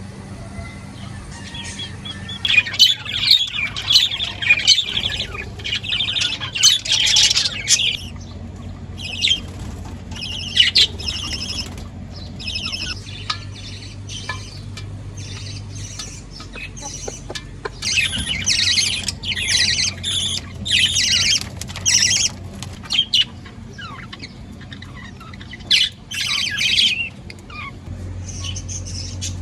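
Small pet birds chirping and squawking in repeated bouts of rapid high chatter, several seconds apart.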